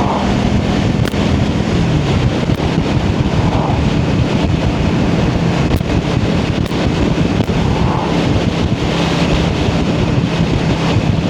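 Wind buffeting a helmet-mounted microphone over a motorcycle engine running at road speed. The engine note drops a little a second or two in, then holds steady.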